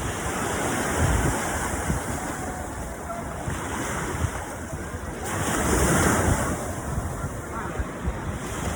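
Ocean surf washing onto the beach, with wind buffeting the microphone; the waves swell louder about six seconds in.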